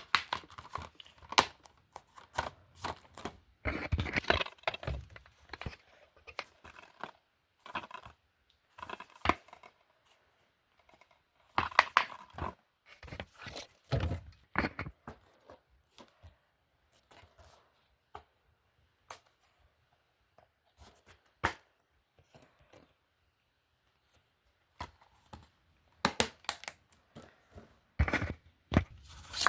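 Plastic DVD and Blu-ray cases being handled: irregular clicks, knocks and rustling as cases are picked up, moved and set down, with quiet pauses in between.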